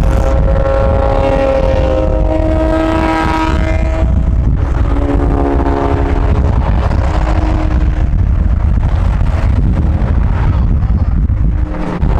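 Car engine revving hard under acceleration, its pitch climbing, with a gear change about four and a half seconds in, over heavy wind rumble.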